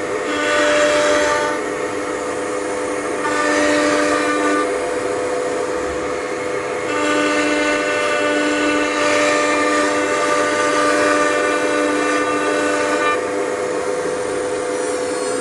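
Blue Elephant 1530 ATC CNC router running a program: the spindle holds a steady high whine, and louder, brighter stretches come and go every few seconds as the tool works.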